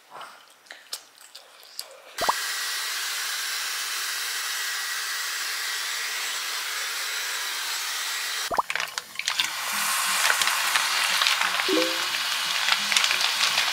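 Food sizzling in a hot pan. A steady sizzle starts suddenly about two seconds in and breaks off about eight seconds in, then gives way to a louder, crackling sizzle. Faint background music plays underneath.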